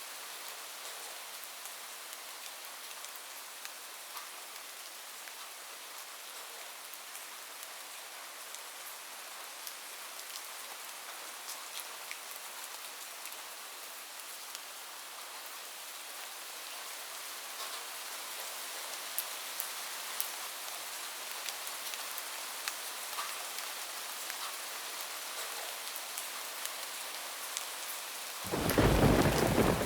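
Heavy rain falling steadily on a roof, with scattered drops ticking, growing a little louder past the middle. Near the end a sudden loud clap of thunder breaks in with a deep rumble.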